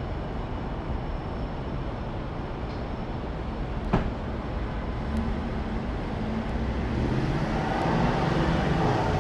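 Steady vehicle noise with a low rumble. From about halfway through, a low engine-like hum slowly grows louder, and there is a single sharp click about four seconds in.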